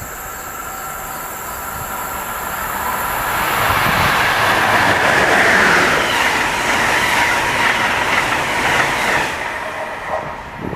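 Passenger train passing through a station at speed: the wheel and rail noise builds to a peak about five seconds in and then slowly fades as it goes by.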